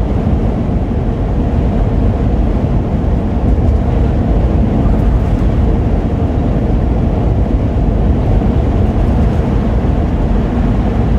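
Steady engine, road and wind noise inside the cab of a gasoline vehicle cruising at highway speed into a strong headwind, the engine held at about 2,800 rpm against the wind.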